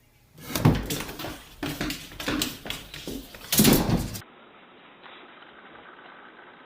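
A burst of irregular knocks and clattering, many sharp hits over about three and a half seconds, ending abruptly in a faint steady hiss.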